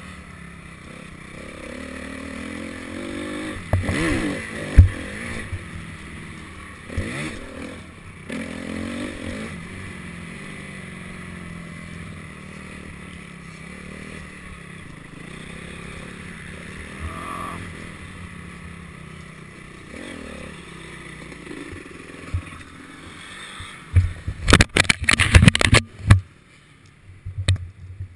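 Honda CRF250 motocross bike's four-stroke single-cylinder engine revving up and down, then running more evenly and quieter for a long stretch. Near the end come a couple of seconds of loud knocks and clatter, then it falls quieter.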